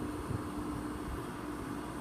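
Embraer ERJ-135 regional jet climbing away just after takeoff, heard from a distance as a steady, even rush with a faint low hum.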